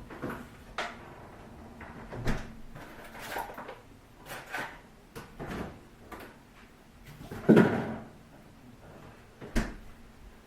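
Kitchen cupboard doors and drawers being opened and shut during tidying: a string of separate knocks and clatters, roughly one a second, the loudest about three quarters of the way through.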